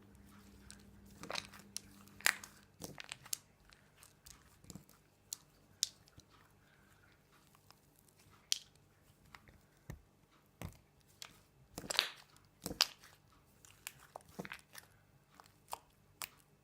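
Avalanche slime being squeezed and poked by hand, giving irregular sharp pops and crackles.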